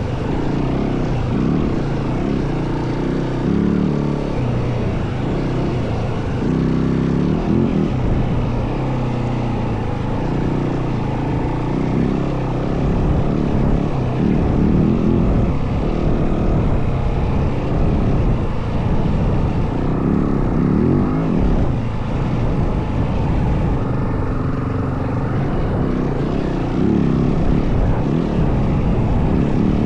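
Yamaha WR450F dirt bike's single-cylinder four-stroke engine running under way, its pitch rising and falling every second or two as the throttle opens and closes.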